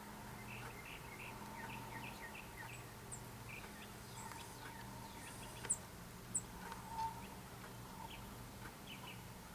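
Backyard birds chirping: many short, quick chirps throughout, with a few sharp, high calls standing out about halfway through. A faint steady low hum lies underneath.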